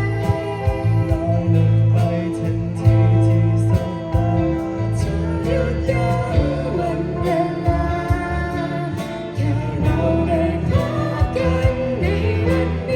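Live band playing a song: a singer over guitar, bass and drums.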